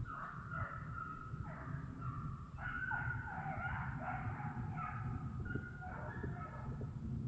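A pack of deer hounds baying on a running deer: several long, overlapping bawls follow one after another.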